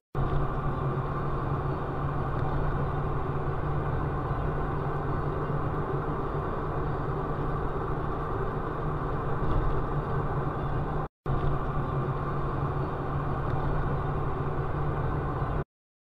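Steady car engine and road noise, heard from inside a moving car, with no impacts. It drops out briefly about eleven seconds in, then carries on.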